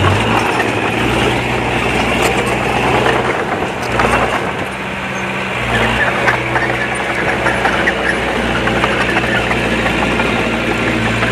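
Heavy-equipment diesel engine running, its note shifting between about 3 and 6 seconds in, then settling again.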